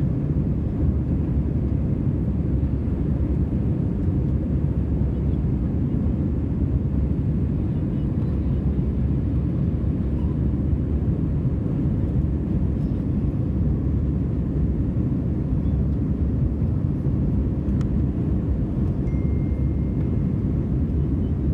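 Steady low engine and airflow noise of an Airbus A320-family airliner, heard from inside the passenger cabin as it climbs after takeoff.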